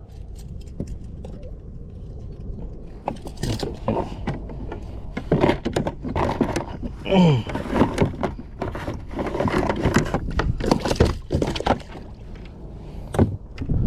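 Irregular knocks and clatter of fishing gear being handled on a kayak, over a steady low rumble, with a short grunt-like vocal sound about seven seconds in.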